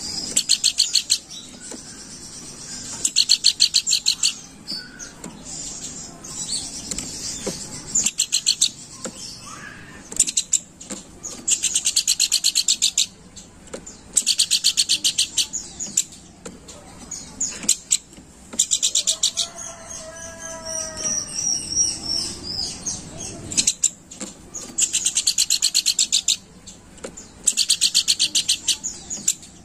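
Pelanduk bukit, a babbler, singing in bursts of fast, high chattering trills about a second long, repeated every couple of seconds. About two-thirds through, a lower, wavering call lasts a couple of seconds.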